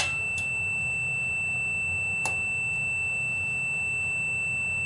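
A continuity tester across the breaker points of a Tecumseh H60 engine gives a steady, high, unbroken beep, which means the points are still closed. There is one faint click partway through.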